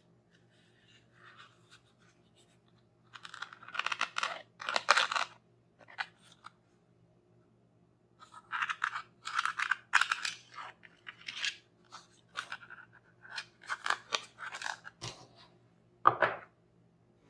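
Hands crunching and crinkling toy packaging in short bursts: a cluster about three seconds in, a longer run of crackly handling from about eight seconds, and one sharp crunch near the end.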